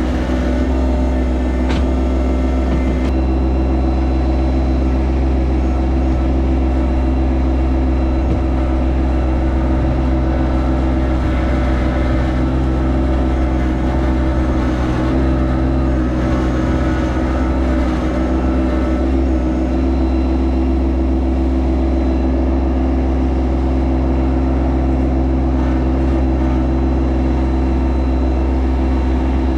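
Yanmar SA324 compact tractor's diesel engine running steadily under load.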